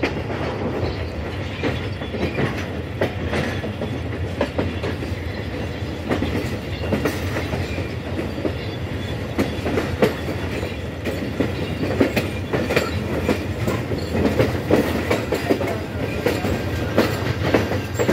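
Pakistan Railways Millat Express passenger train running on the track: a steady low rumble with frequent, irregular clicks and knocks of wheels passing over rail joints.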